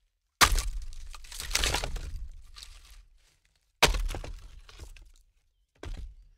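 Three separate breaking crashes, glass shattering: a long smash about half a second in with debris clattering on for a couple of seconds, a second smash near four seconds that dies away quickly, and a short break near the end.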